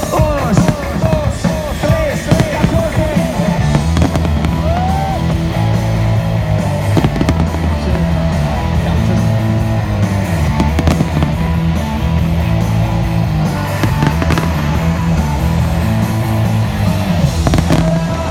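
Fireworks exploding with sharp bangs and crackles over loud music with a steady bass line; the bangs come thickest in the first couple of seconds.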